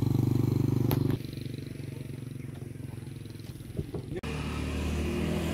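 Motorcycle engine running with a steady, rapid low pulse, cutting off abruptly about a second in. After a quieter stretch with a couple of knocks, a lower steady hum starts near the end.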